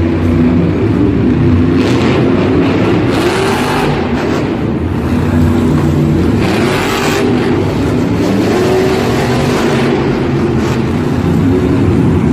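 Monster truck engines running loud, with several surges of noise that fit revving.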